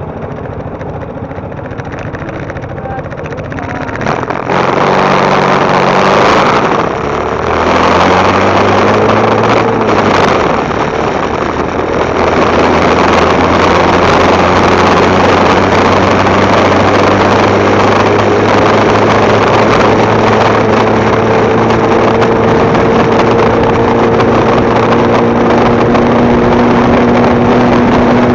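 Motorcycle engine running as the bike gets under way: its note climbs, dips briefly about seven seconds in, climbs again, then settles to a steady cruise. A loud rushing noise grows with the speed.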